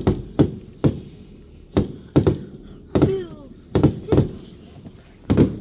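Fireworks exploding in a display: about ten sharp bangs at uneven intervals, some coming in quick pairs, each with a short echoing tail.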